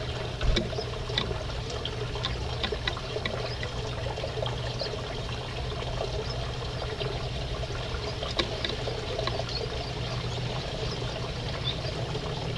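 Aviary finches and a canary giving many short, high chirps over a steady background noise.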